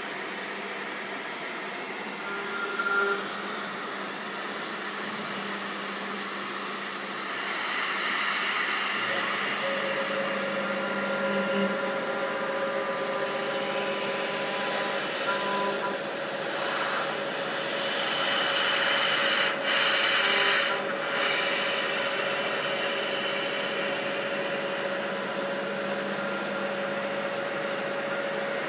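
5-axis CNC router running, a steady spindle whine over machine hum. A rougher cutting noise comes in about seven seconds in and is loudest a little past the middle, where it drops out briefly twice.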